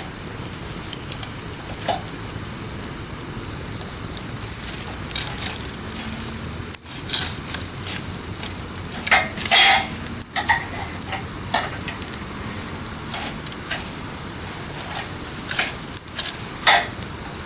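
Wood campfire burning with a steady hiss and irregular sharp crackles and pops. A cluster of louder pops comes about halfway through and another near the end.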